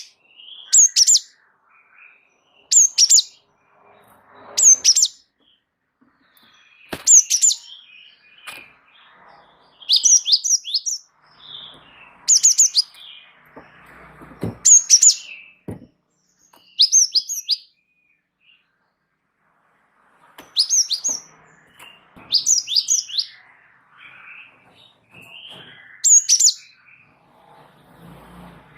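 A gelatik wingko songbird singing in bursts of two to four sharp, high, falling chirps, repeated about every two seconds, the kind of busy call used as a tutor and lure recording. Fainter, lower twittering fills some of the gaps.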